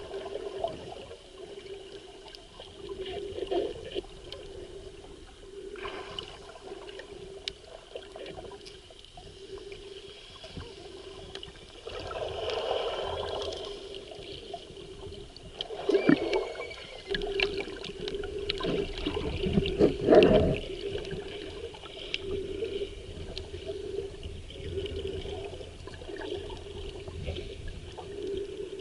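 Muffled water sloshing and bubbling heard through an underwater camera, with a steady low hum and several knocks, the loudest about two-thirds of the way through.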